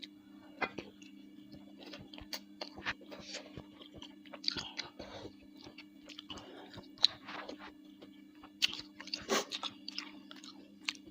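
Close-up chewing of bakso meatballs in broth, with many short irregular mouth clicks and smacks over a steady low hum.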